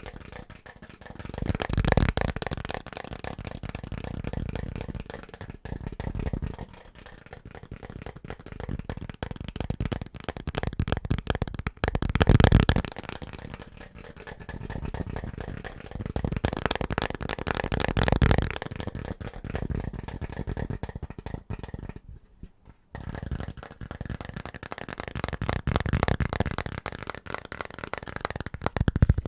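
Very fast, aggressive finger tapping on assorted household objects, a dense patter of clicks that swells louder in places. It breaks off for a moment about three-quarters of the way through, then resumes.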